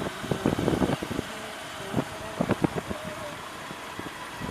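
Motorcycle running on the move, with road and wind noise and irregular knocks and rattles in clusters.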